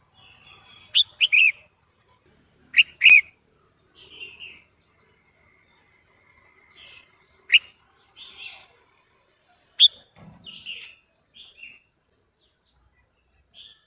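Female red-whiskered bulbul calling: short sharp calls, some in quick pairs, with softer chattering notes between them. This is the female call that keepers play to rouse male bulbuls into song.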